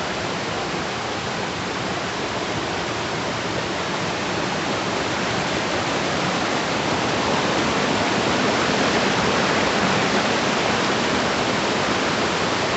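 Waterfall rushing with a steady, even roar of falling water, swelling slightly in loudness about halfway through.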